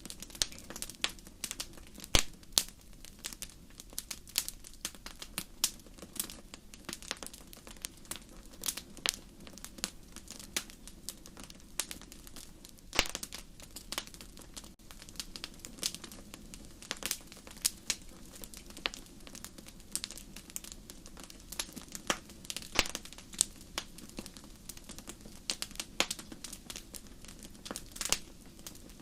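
Wood fire crackling steadily, with frequent sharp pops and snaps over a low hiss of burning.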